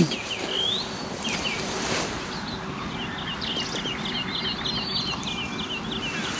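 Wild songbirds singing: scattered chirps and short whistles at first, then from about halfway through a rapid run of about a dozen short repeated notes, around four a second, over a faint steady background hum.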